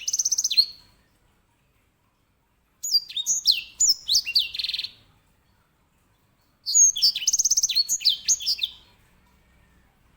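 White-rumped seedeater (grey singing finch, edel sanger) singing loud song phrases of quick chirps and fast rolling trills. A phrase ends about a second in, and two more follow, each about two seconds long, with pauses of about two seconds between them.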